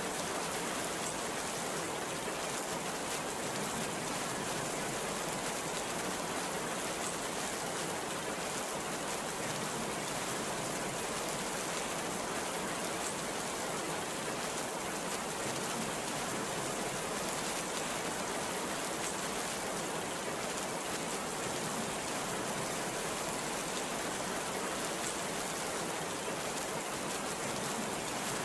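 Heavy rain falling in a steady downpour, an even rushing hiss with no breaks.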